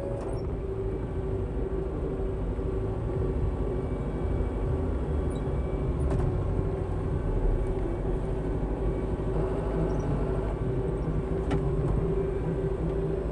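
A farm tractor's engine runs steadily with a low rumble and a constant hum.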